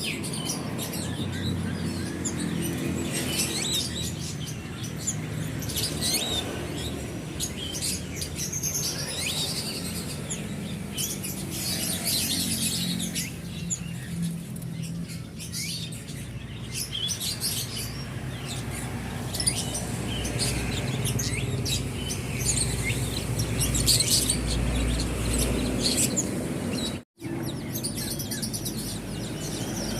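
Many caged songbirds chirping and calling at once in overlapping, busy song, over a steady low hum. The sound cuts out for a moment near the end.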